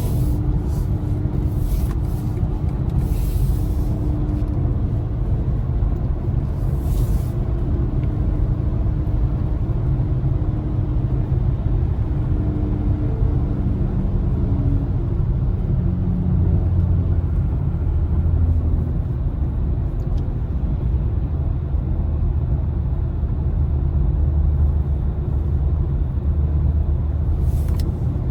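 Steady low road and tyre rumble from a BMW i4 M50 electric car on the move, with no engine note.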